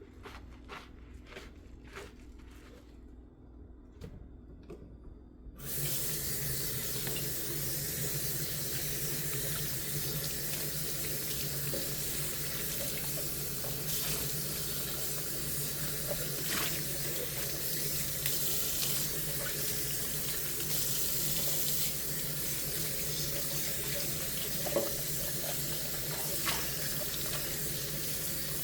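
A few light clicks and knocks of dishes being handled, then about five and a half seconds in a kitchen tap is turned on and water runs steadily into the sink, with an occasional clink of dishware under the stream.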